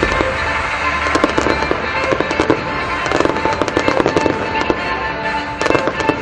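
Aerial fireworks going off in clusters of rapid crackling pops, about one cluster a second, with music playing throughout.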